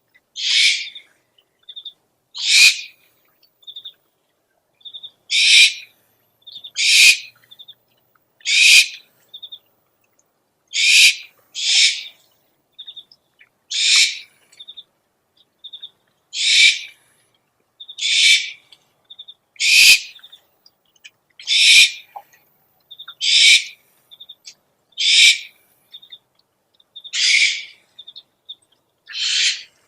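Owl lure recording: an owl's short, harsh screeching call, repeated about every one and a half to two seconds, with faint short chirps in between.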